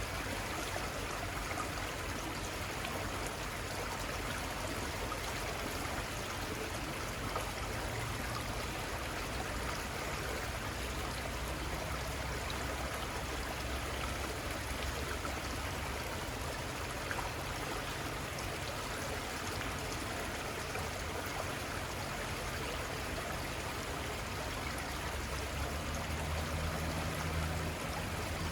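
The Little Conestoga River flowing: a steady rush of running water with no change throughout.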